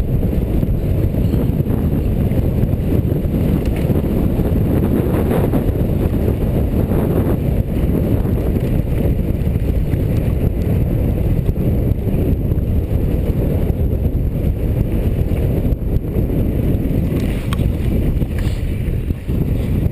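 Steady wind rumble on the microphone of a camera carried on a mountain bike ridden at speed, with a few faint knocks from the bike over the trail.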